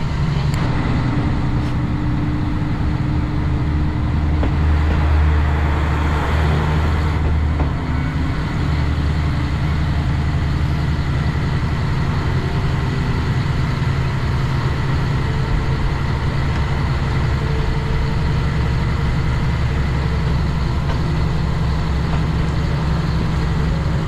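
A large diesel vehicle engine running steadily, a deep hum with some rushing noise that swells for a few seconds about five seconds in.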